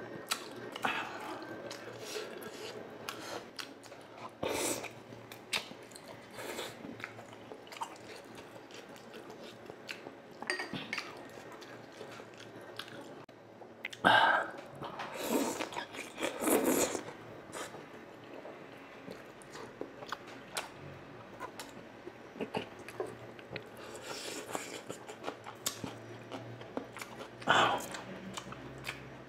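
A person chewing and biting into deep-fried battered eggs (kwek-kwek and tokneneng). Many short mouth sounds, with the loudest bites coming about halfway through and again near the end.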